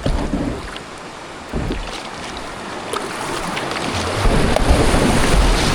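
Wind buffeting the microphone: a steady rushing noise with a low rumble that grows louder about four seconds in.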